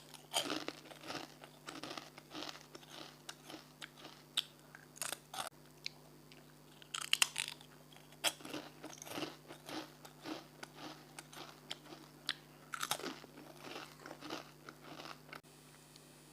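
Close-miked eating: crunchy food being bitten and chewed, with irregular crisp crunches, louder bites near the start, around seven seconds in and around thirteen seconds in.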